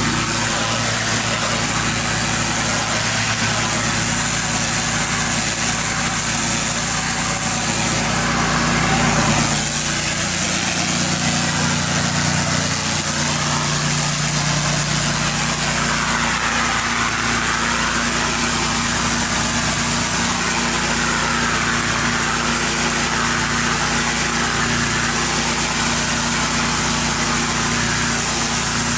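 Gas-engine pressure washer running steadily under load, with a constant high hiss over the engine hum.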